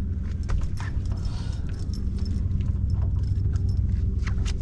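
Steady low hum of a running motor, with scattered sharp clicks and knocks over it.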